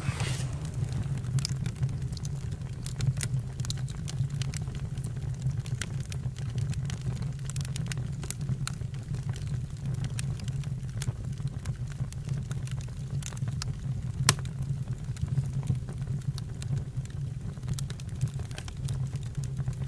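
Campfire burning: a steady low rumble with sharp crackles and pops scattered irregularly throughout, one louder pop about fourteen seconds in.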